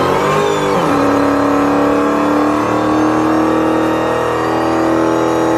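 Dodge Challenger SRT's supercharged V8 at high revs: the revs dip and pick back up in the first second, then are held steady at a high, constant pitch.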